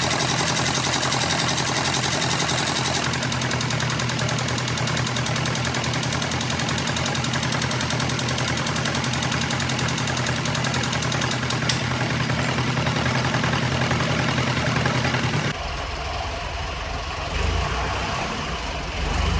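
Old baler's diesel engine running steadily with a fast, even beat. About fifteen seconds in, the sound changes abruptly to a quieter, lower rumble.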